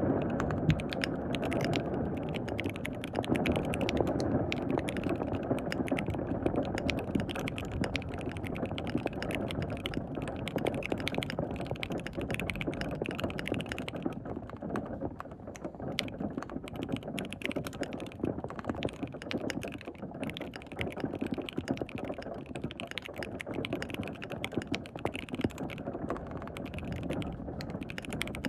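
Continuous fast typing on a KBD67 Lite R3 mechanical keyboard with lubed linear switches: dense, uneven key clicks and clacks. A steady rain hiss runs underneath.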